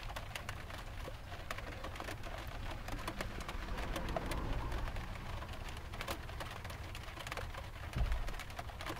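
Light rain tapping on the van's metal roof over a steady low rumble of city traffic, with scattered small ticks and clinks of a spoon in a ceramic pot. A dull thump about eight seconds in.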